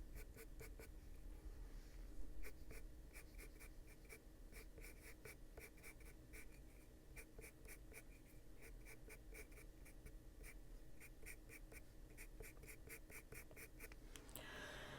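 Faint coloured-pencil shading on paper: quick, even back-and-forth strokes of a wax-based Caran d'Ache Luminance pencil, about four or five a second, broken by a couple of short pauses.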